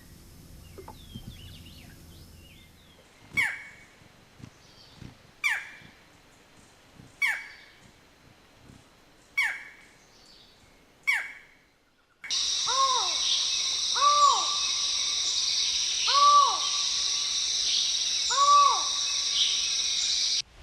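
Bird calls from two birds. First a series of sharp, downward-sweeping calls about every two seconds; then, after a cut, a different bird gives four arched hooting calls about two seconds apart over a loud, steady high-pitched drone.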